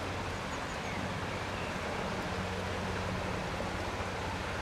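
Steady outdoor ambience: an even rushing noise with a faint low hum under it, and a few faint high chirps about half a second in.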